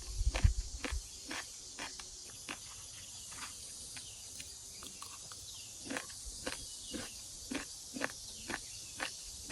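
Footsteps at a steady walking pace, about two a second, over a constant high chirring of insects.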